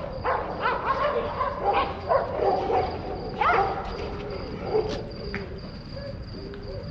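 Stray dogs barking, several calls overlapping, thinning out after about five seconds.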